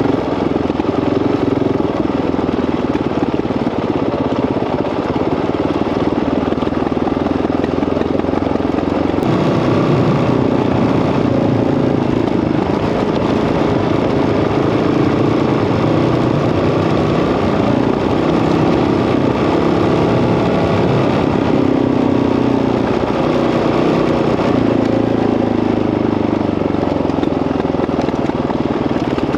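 Honda CRF dirt bike engine running under way on a trail ride, its note rising and falling with the throttle.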